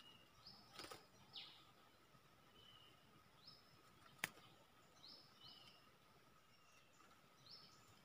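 Faint, scattered short bird chirps, brief high notes, some sliding quickly down, over a faint steady hum. A single sharp click about four seconds in is the loudest sound.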